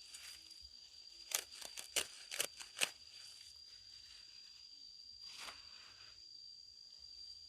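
A quick run of six sharp snips or snaps in about a second and a half, then one more a few seconds later, typical of vegetable stems being cut during harvesting, over a steady high-pitched tone.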